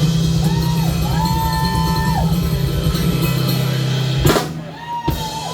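Live band with drum kit and guitar playing out the end of a song, closing on one loud final hit about four seconds in; the music then drops away, leaving whistles from the crowd.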